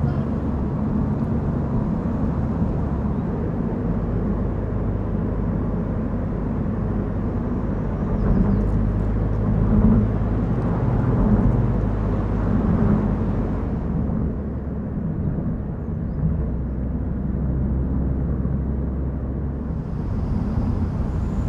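A car being driven along a road: a steady low rumble of engine and tyre noise that swells a little around the middle.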